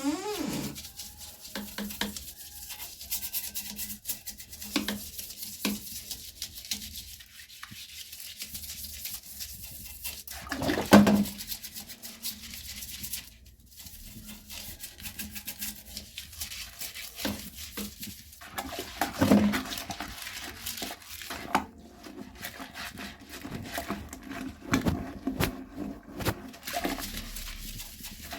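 Household cleaning sounds: brushing and rubbing with many small clicks and knocks, and two louder brief sounds about a third and two thirds of the way through.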